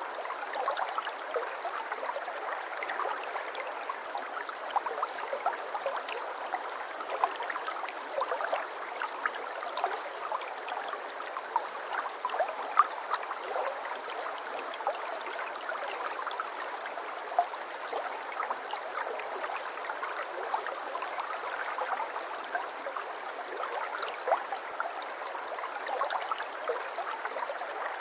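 Shallow babbling brook: water trickling and gurgling over stones in a steady, busy patter of small splashes.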